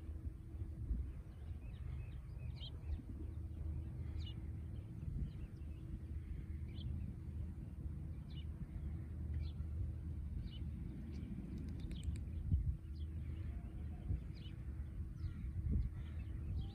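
Small birds chirping, short high calls repeating every second or two, over a steady low rumble and faint hum.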